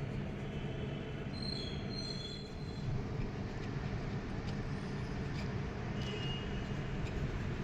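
Excavator diesel engine running steadily with a low rumble, with a few faint high squeaks about a second and a half in and again near the end.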